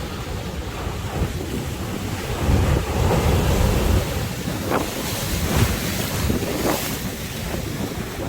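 Sea waves surging and washing with strong wind buffeting the microphone; a louder surge about a third of the way in, then a few short splashes.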